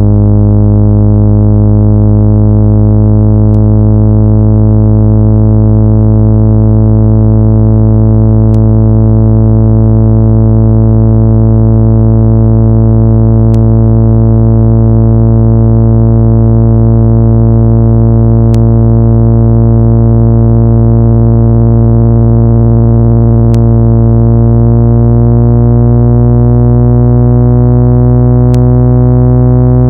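Loud, steady low synthesized buzzing tone with many overtones, played through a phone speaker to vibrate water out of its grille and diaphragm; its upper tones slowly rise in pitch.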